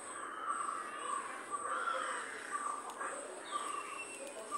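Birds calling outdoors, a short call repeated about every half second, with a faint steady high-pitched whine behind them.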